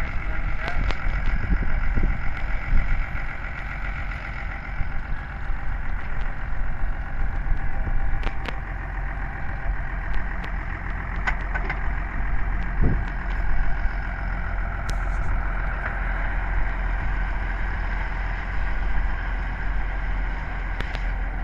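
A tractor engine running steadily, with a few brief clicks.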